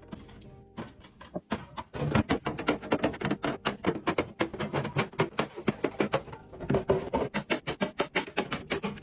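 Fast, dense clicking and tapping, as of plastic containers and food packages being handled and set down during fridge restocking; fainter for about the first two seconds, then loud and busy.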